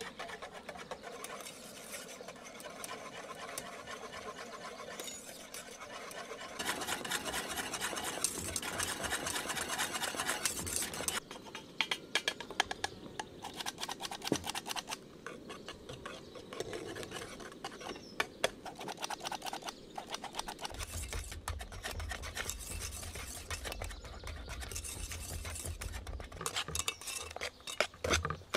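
Cooking sounds: a utensil stirring and scraping in a bowl, with small clinks of metal on dishes. The clatter gets busier and louder for a few seconds about a quarter of the way in.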